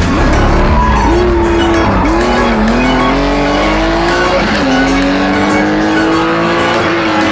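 Racing Porsche 911's air-cooled flat-six accelerating hard up the hill. Its pitch climbs in each gear and drops at upshifts about two seconds and four and a half seconds in, then rises again.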